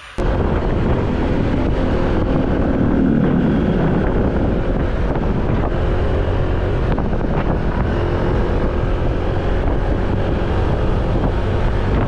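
Loud, steady wind buffeting the microphone over a low rumble. It starts abruptly right at the beginning and holds.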